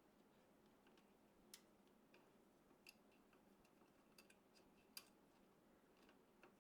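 Faint, scattered clicks and light taps, about five over several seconds, the sharpest one about five seconds in: parts being handled and fitted during a desktop PC assembly.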